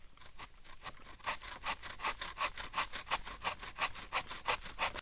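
Hand saw cutting through wood in quick, even strokes, about five a second, that stop suddenly.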